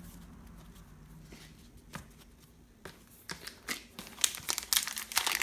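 Crinkling and tearing of a trading-card pack wrapper being handled and opened. It is quiet at first, and about three seconds in scattered clicks and crinkles start, growing busier toward the end.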